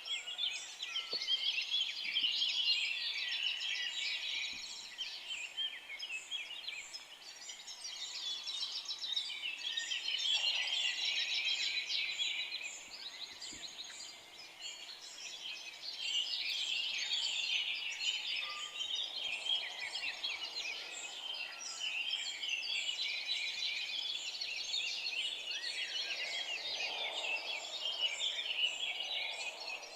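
A dense chorus of many forest songbirds singing at once: rapid high chirps and trills overlap and swell and ease in waves. A few softer, lower-pitched calls come in now and then.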